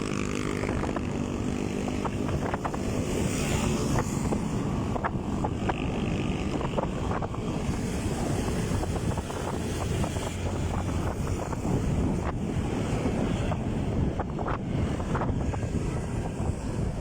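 Wind rushing over the microphone with a motorcycle engine running underneath while riding, with scattered light knocks.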